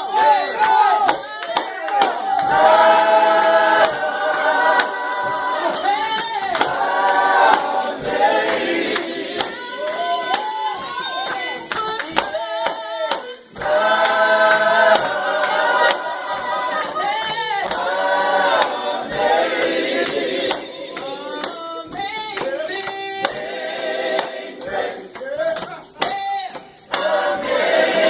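Gospel vocal group singing with drawn-out, bending vocal lines, a tambourine shaken and struck along with the beat.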